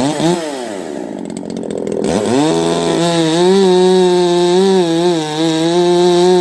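Dolmar 5105 two-stroke chainsaw with a modified muffler: a quick rev falls back toward idle, then about two seconds in it climbs to full throttle and holds there, the pitch wavering slightly. It runs clean and strong after a new piston kit and carburettor rebuild.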